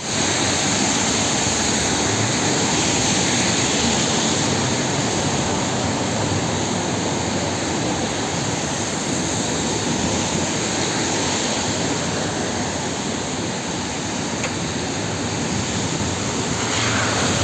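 Belkommunmash BKM 321 trolleybus on the move: a steady rush of road and running noise.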